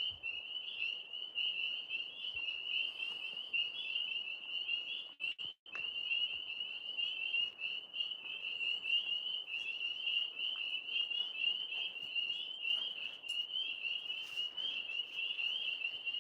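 Dense chorus of tree frogs calling continuously, a steady high-pitched pulsing trill from many frogs at once. The sound cuts out for a moment about five seconds in.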